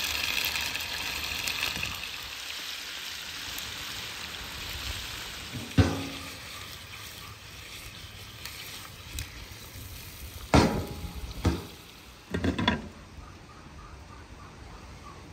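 Pieces of octopus frying in a hot pan, the sizzle loudest at first and fading over the next few seconds. A few sharp knocks follow later as the pan and its lid are handled.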